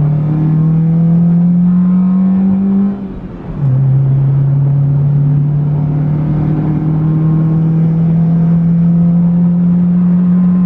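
2000 Honda Civic EX's 1.6-litre four-cylinder engine accelerating hard from inside the cabin: its note rises, drops briefly about three seconds in at a gear change, then climbs again more slowly. The engine still cuts up a little at high revs, which the driver puts down to leftover oil on a spark plug or to the air-fuel mix not matching an aftermarket intake.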